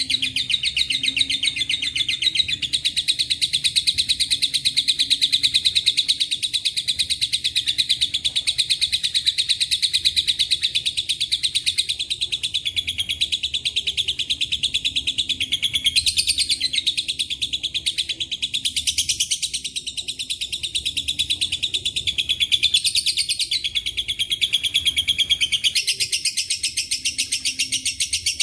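Lovebird singing 'ngekek panjang': a long, unbroken, very rapid high chatter, changing phrase a few times along the way. The song is filled with phrases copied from cililin and canary song.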